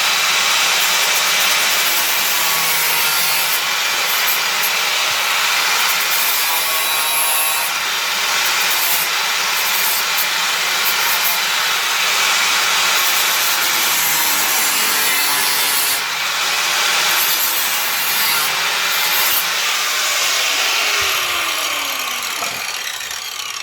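Electric grinder abrading sheet-steel car bodywork: a loud, steady grinding rasp. Near the end it is switched off and winds down with a falling whine.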